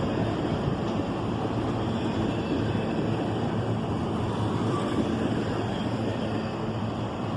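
Long CSX double-stack intermodal train rolling past: a steady rumble of wheels on rail that keeps on without a break.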